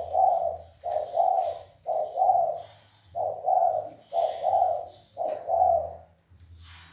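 Spotted dove cooing fast: six two-part coos, a short note then a longer one, about one a second.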